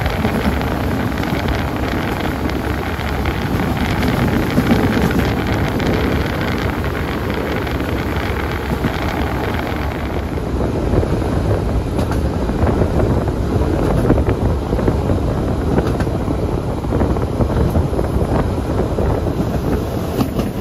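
Running noise of a PESA Link diesel multiple unit heard from inside the carriage: a steady rumble and rush of wheels and air. About halfway through the hiss eases and a few faint clicks come through.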